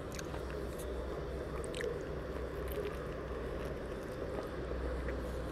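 A person biting into and chewing a baguette sandwich: wet chewing with small scattered crackles of the bread crust, over a steady low background hum.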